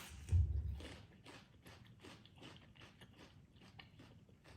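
A bite into a piece of raw onion dipped in sauce, a soft low thud about half a second in, followed by crunchy chewing at about two to three crunches a second.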